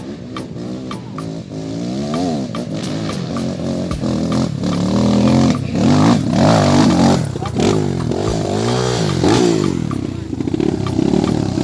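Off-road vehicle engine revving up and down over and over, its pitch rising and falling roughly once a second, working hard on a steep climb; loudest about halfway through.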